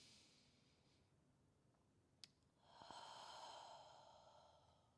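A person's slow, faint breath: a soft inhale at the start, then a long exhale about three seconds in that fades away. A single small click just after two seconds.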